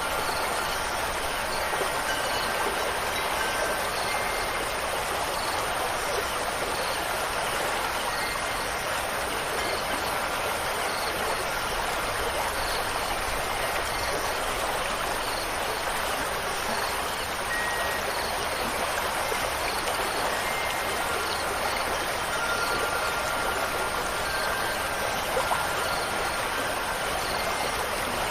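Steady rushing of water, like a stream or steady rain, with faint wind chime tones ringing now and then.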